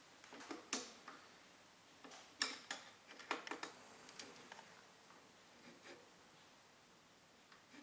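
Faint scattered clicks and light knocks, a dozen or so, mostly in the first four seconds: metal parts and tools handled while the orbital welding rig is fastened in place.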